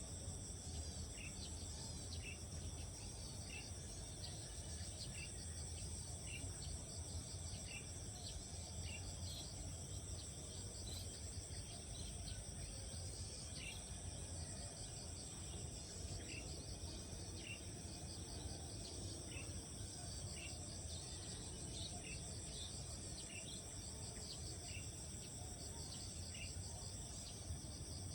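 Steady chorus of insects, crickets shrilling without pause, with short high chirps repeating about once or twice a second and a low rumble beneath.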